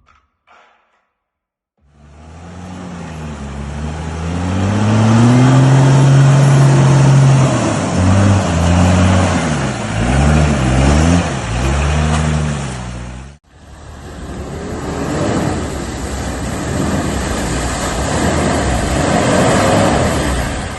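A motor vehicle engine revving, its pitch rising and falling several times, starting about two seconds in and cutting off suddenly around two-thirds of the way through. A steady rushing noise follows, with the engine faintly beneath it.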